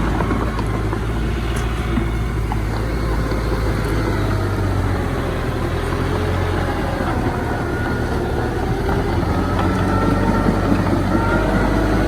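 Diesel engine of heavy earthmoving machinery running steadily with a deep rumble. Faint, wavering higher tones come in over the second half.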